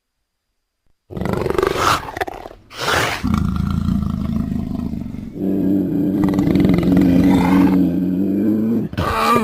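Big cat roars from a sound-effects collection: after about a second of silence come two short roars, then a long, low growling roar lasting several seconds, with a new roar starting near the end.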